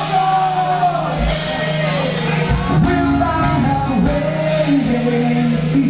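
Loud rock music with a singer's voice over guitar and a held low note.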